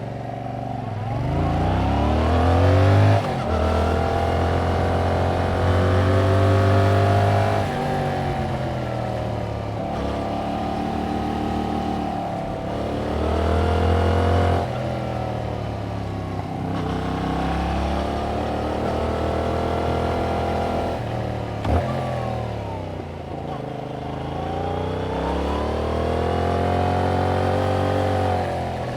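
Yamaha MT-07's 689 cc parallel-twin engine through its stock exhaust, pulling under throttle and easing off again and again as the bike is ridden. The engine note climbs and falls about six times over the stretch.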